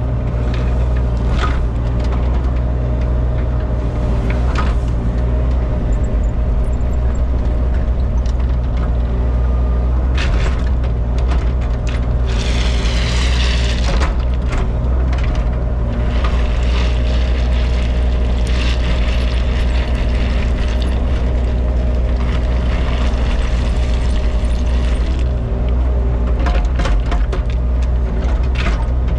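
Excavator's diesel engine running steadily, with intermittent scraping and clatter from the machine working stone screenings.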